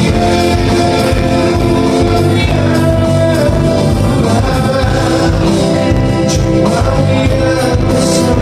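A live band playing a song with a vocalist singing over it, loud and continuous.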